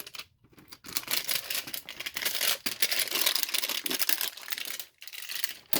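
Pokémon card packaging crinkling and tearing as it is opened. A dense crackle starts about a second in and dies away near the end.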